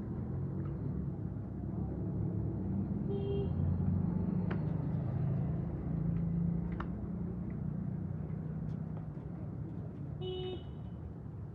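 Motor vehicle engine running steadily, with two short horn beeps, one about three seconds in and one near the end.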